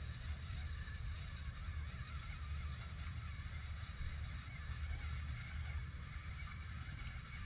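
Steady outdoor background noise: a continuous low rumble with a fainter even hiss higher up, and no distinct event.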